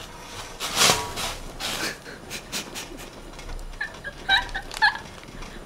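Close-miked eating sounds: chewing and crunching of food, with short clicks and mouth noises. A few brief high-pitched chirps come about four seconds in.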